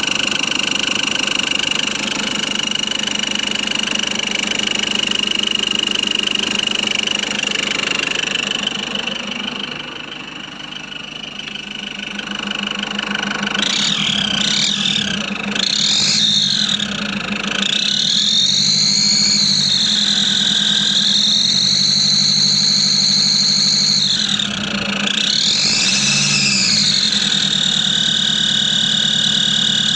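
Nissan Patrol Y61 3.0-litre four-cylinder turbodiesel running with a high-pitched whistle that the owner cannot locate. It idles steadily at first. From about halfway it is revved several times, and the whistle rises and falls in pitch with engine speed, holding higher through one longer rev.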